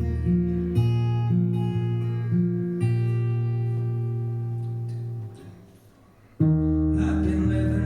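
Guitar-led live band music playing the instrumental intro of a song in long sustained notes. The notes die away about five and a half seconds in, and after a short pause the music comes back in fuller and louder.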